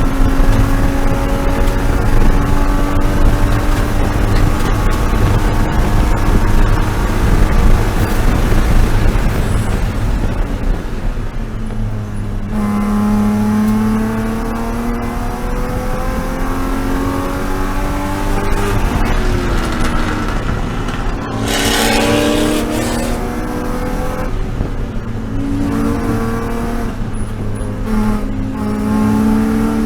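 BMW E36 M3 race car's straight-six engine at racing speed. Its note climbs slowly through a long pull for about twelve seconds, then drops and rises again and again through corners and gear changes. A brief rush of noise comes about two-thirds of the way through.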